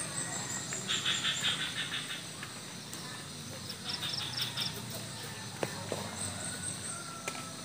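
Several birds calling in the countryside at dawn: a thin, high falling whistle at the start, a quick rattling run of notes about a second in and again around four seconds, and short high chirps near the end, over a low steady background hum.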